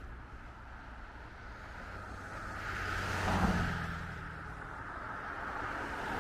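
A car passing on the street, its engine hum and tyre noise swelling to a peak about three and a half seconds in, then fading.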